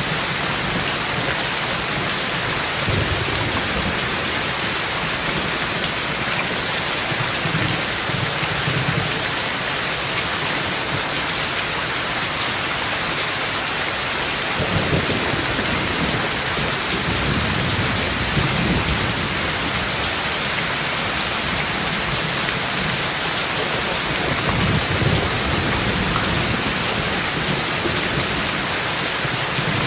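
Steady rain falling, with low rumbles of thunder coming and going several times. The thunder is strongest about halfway through and again near the end.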